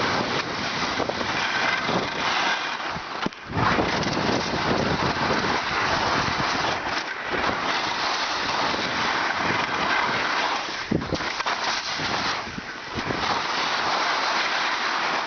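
Steady rushing noise of wind buffeting the microphone while moving fast, mixed with surface noise. It drops off briefly about three and a half seconds in and again near eleven seconds.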